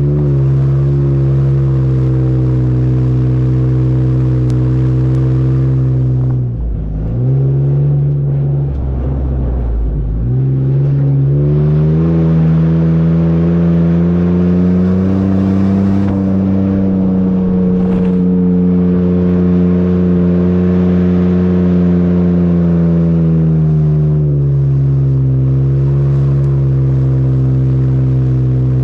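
2012 Nissan Xterra's VQ40DE 4.0-litre V6 exhaust running under load while driving in soft sand. Its pitch dips sharply twice, about a third of the way in, then climbs and holds higher, and drops back lower near the end.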